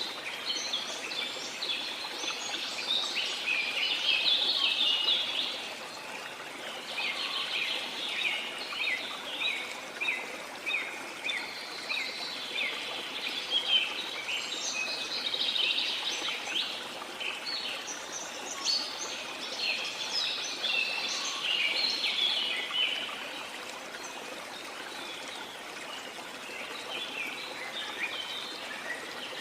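Many birds calling and chirping in quick, overlapping bursts over a steady hiss of running water, the calls thinning out for a few seconds near the end.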